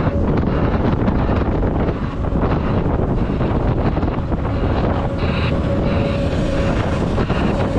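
Diesel engines of a large excavator and articulated dump trucks running on an earthworks site, a steady heavy rumble with wind buffeting the microphone. A faint steady whine joins in the second half.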